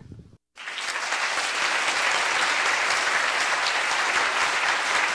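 Audience applauding steadily, starting abruptly about half a second in.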